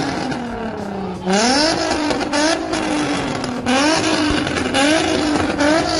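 Sports car engine revved hard and let fall again and again, about five quick rising pulls, as the car drifts. Under it runs a loud rushing hiss of spinning tyres.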